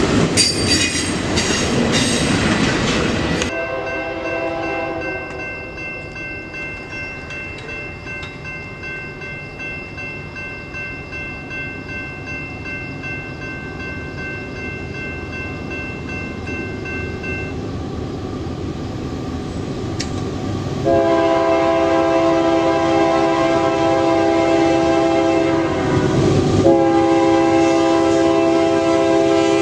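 A train rumbling past close with wheel clatter, cut off suddenly a few seconds in. A diesel locomotive horn then sounds: faint and held at first, then loud, long blasts of several tones at once, with a short break near the end.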